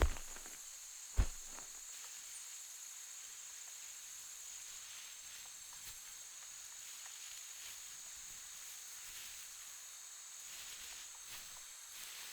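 Rainforest insects buzzing in a steady, high-pitched chorus, with two dull thumps in the first second or so.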